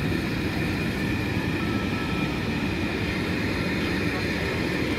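Passenger train of České dráhy coaches rolling steadily past on the adjacent track: a continuous rumble of wheels on rails, with a faint steady high tone above it.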